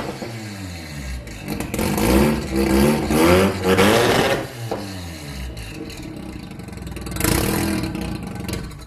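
Mazda RX7 FD3S twin-rotor rotary engine with a big single turbo and no exhaust, blipped up and down several times in quick succession, then settling lower. A short loud burst comes about seven seconds in. The revving sound is typical of a rotary.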